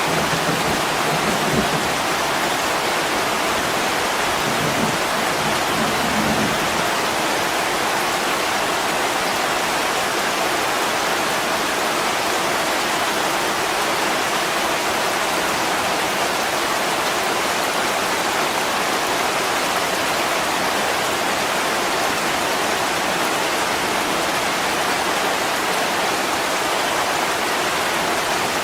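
Heavy rain pouring steadily onto a window pane, an even hiss with no breaks. A low rumble sits under it for the first six seconds or so.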